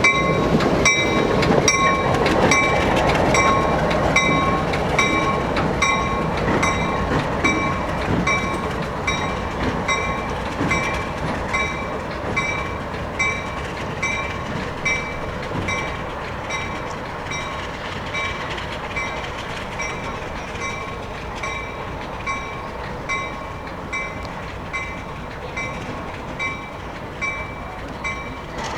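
Train rolling past with wheel-on-rail rumble and clatter that slowly fades. A bell rings steadily about once a second throughout.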